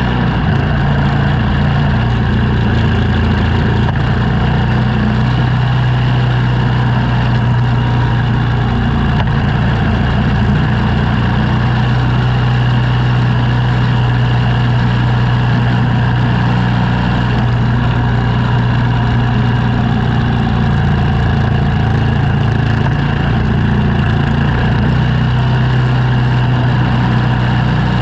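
Engine running steadily at a constant speed, a low, even hum.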